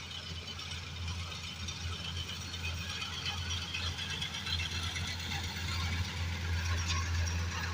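Combine harvester running in wheat: a steady low engine hum under a continuous rattling clatter from the machine's moving parts.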